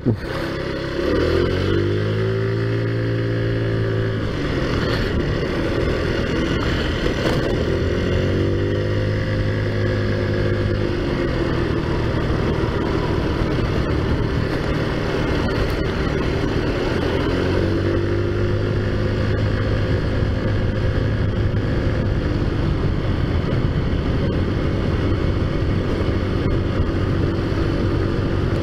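Taotao Zummer minibike's small four-stroke engine running while riding along. Its pitch rises and levels off three times, about a second in, around eight seconds and around seventeen seconds, over a steady rush of road and wind noise.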